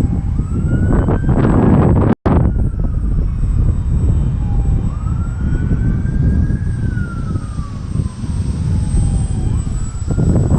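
Electric motor and propeller of an E-flite Ultimate 2 RC biplane whining in flight, its pitch rising and falling slowly as the throttle changes. Heavy wind rumbles on the microphone underneath, and the audio cuts out for a moment about two seconds in.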